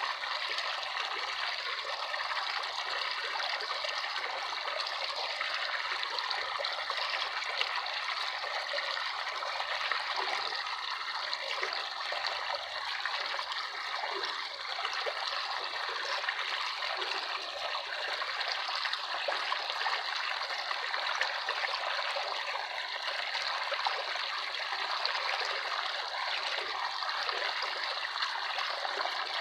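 Running water trickling and bubbling steadily, like a small stream, light and without any deep rumble.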